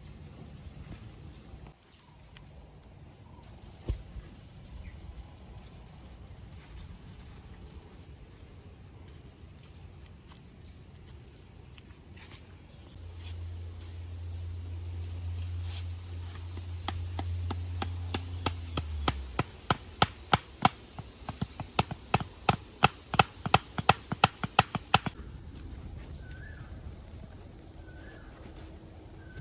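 A steady high insect-like drone. About two thirds of the way in comes a rapid run of sharp knocks, roughly four or five a second, for about six seconds.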